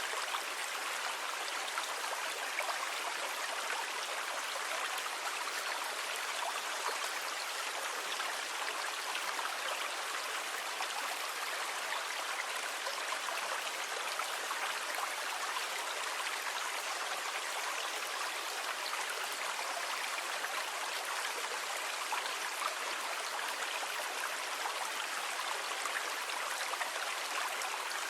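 Sea water rushing steadily, an even hiss without distinct wave surges.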